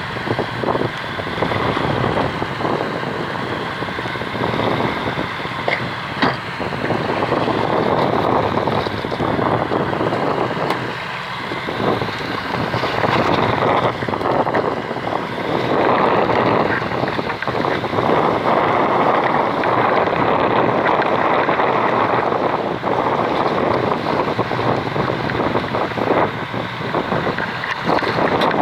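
Wind buffeting the microphone in gusts on a fishing boat at sea, over the boat's engine and the water.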